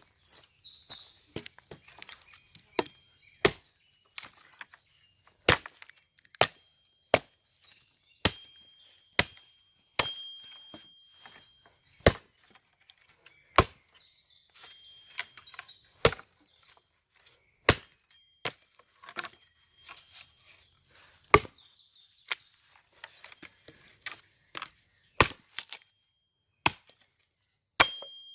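Repeated sharp blows of a hand tool, about one every one to two seconds at an uneven pace. Some strikes are followed by a faint high ringing.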